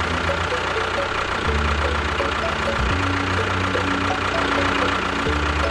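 Small motor of a homemade miniature tractor running steadily, with a thin steady whine.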